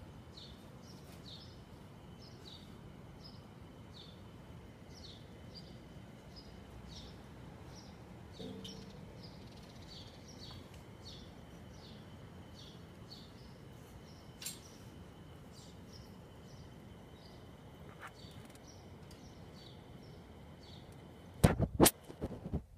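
A small bird chirping repeatedly, about twice a second, over a steady faint background hum. Two loud knocks come near the end.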